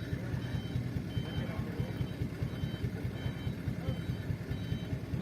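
Truck engine running steadily while a reversing alarm beeps about twice a second.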